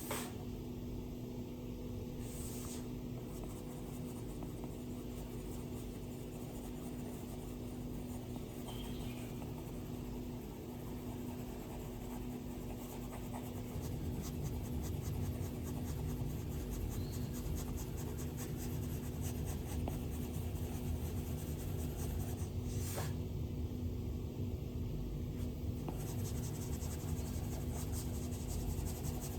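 Stylus drawing on an iPad's glass screen: scratchy strokes and sharp taps of the pen tip, over a steady low hum. The strokes grow louder and quicker, with fine rapid ticking, about halfway through.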